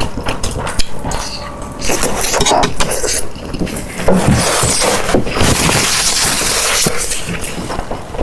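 Close-miked eating sounds: dense crunching and crackling of food being bitten and chewed.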